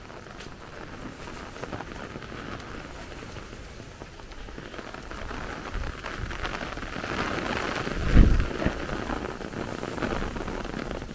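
Rain pattering on an umbrella held just overhead, a dense patter of drops that grows louder through the second half. A short low thump stands out about three quarters of the way through.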